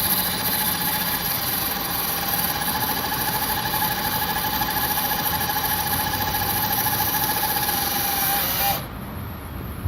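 A machine engine running at steady speed with a high, steady whine over it. The sound drops away abruptly about nine seconds in.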